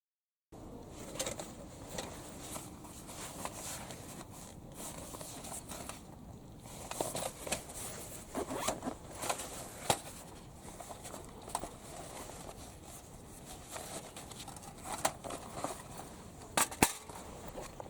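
Wood campfire crackling, with irregular sharp pops over a steady low hiss and a couple of louder snaps near the end.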